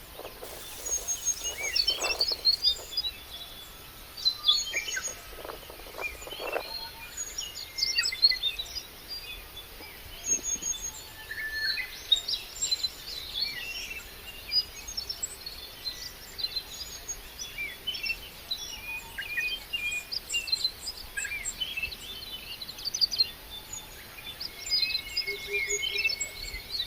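Many birds chirping and singing at once, a busy chorus of short overlapping calls and trills, with a few soft knocks in the first few seconds.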